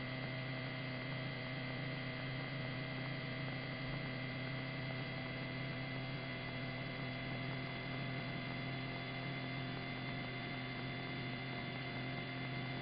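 Steady electrical hum with a faint constant high whine on a police helicopter's radio and intercom audio feed, with no transmission.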